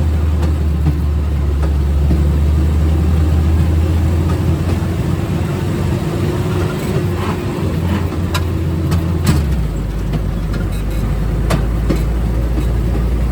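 Rail speeder's engine running steadily as the track car rolls along the rails. Its low note drops about nine seconds in, and there are occasional sharp clicks.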